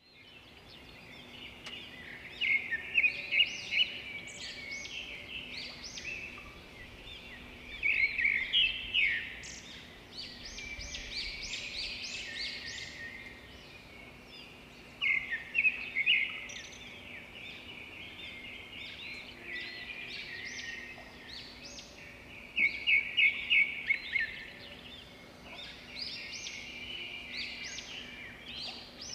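Birds singing and chirping: quick runs of high notes, with louder phrases coming every several seconds over a faint steady hum.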